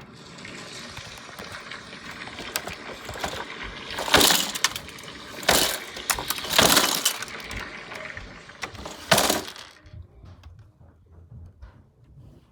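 Crashing and shattering destruction noise, glass breaking among it: a continuous rattling din with four loud crashes, which cuts off abruptly a couple of seconds before the end.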